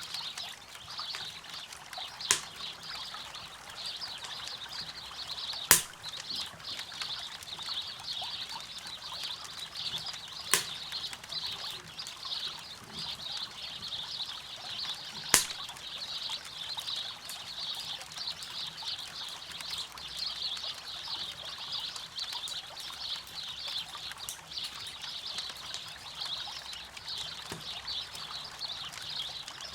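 Campfire crackling beside a river: four sharp pops of burning wood, the loudest about six seconds in, over a steady rush of running water.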